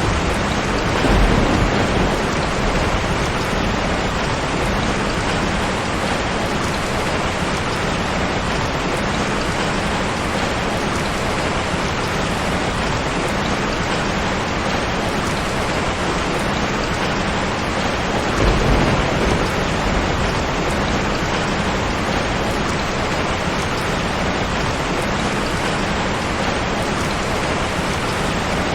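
Steady heavy rain falling, an even hiss with no letup. Low rumbles of thunder swell briefly twice, about a second in and again just past the middle.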